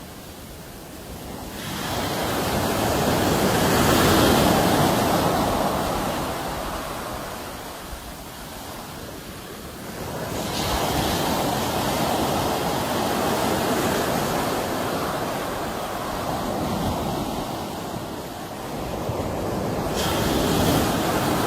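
Sea waves breaking on a shore: three surges of surf, each rising and then slowly fading, about every nine seconds.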